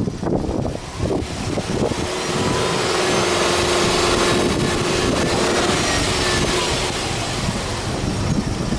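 Subaru Impreza S-GT's turbocharged 2.0-litre flat-four engine running; about two seconds in the engine speed rises and is held steady for several seconds, then eases back near the end.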